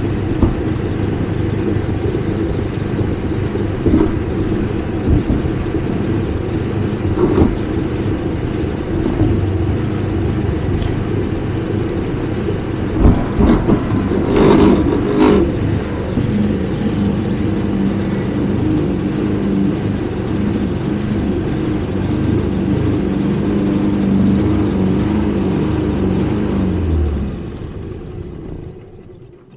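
An engine running steadily, with a few clattering knocks about halfway through, fading out near the end.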